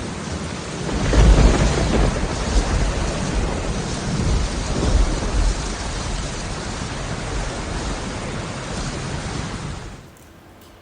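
Thunderstorm sound effect: a steady wash of rain with a rumble of thunder that swells about a second in and again around five seconds, then cuts off sharply near the end.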